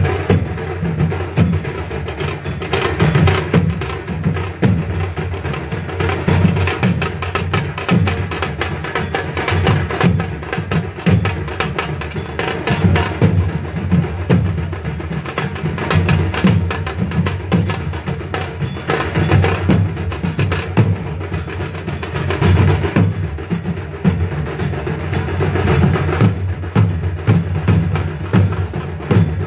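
Drums and other percussion playing a fast, continuous rhythm of dense strokes, with a sharp clacking beat over a deep drum.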